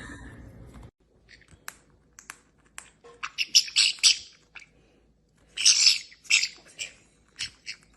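Pet parrot chirping and squawking in short, sharp, high calls, in two busy clusters, one a few seconds in and another past the middle, with single chirps between.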